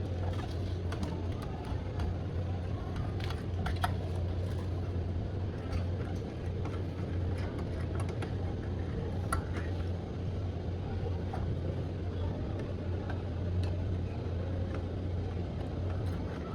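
Scattered light clicks and taps of computer hardware being handled and fitted into a desktop case, over a steady low hum.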